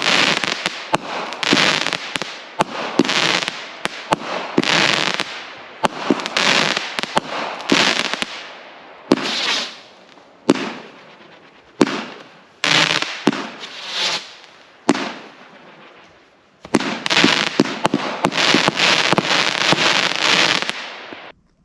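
Brothers Fireworks 'Light Brigade' 500-gram consumer cake firing shot after shot: each tube goes off with a sharp thump followed by a spell of crackling breaks. Near the end the shots come close together in a dense stretch of crackling, which cuts off suddenly.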